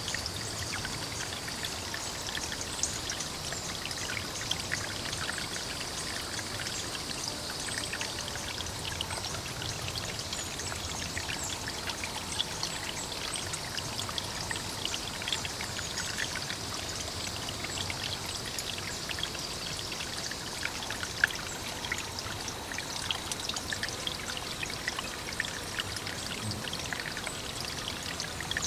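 Steady pouring, trickling water, dense with small crackles and clicks. A faint high steady tone fades out about eight seconds in.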